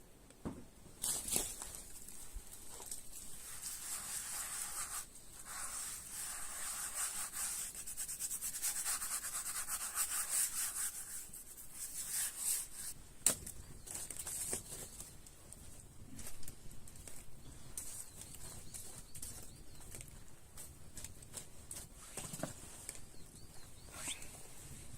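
Repeated scraping strokes for about ten seconds, then scattered light knocks and clicks.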